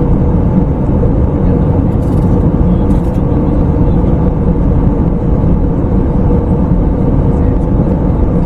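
Steady in-flight cabin noise of an Airbus A321neo: the even rush of airflow and its Pratt & Whitney PW1100G geared turbofans, heaviest in the low range, with a faint steady hum.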